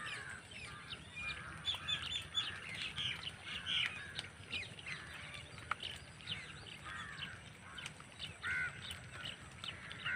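Birds chirping and calling continually, many short overlapping calls, over a low steady rumble.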